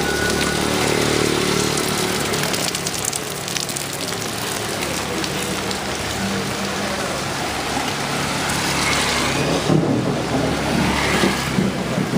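Steady heavy rain falling on a street, with a motor vehicle's engine running low in the first half.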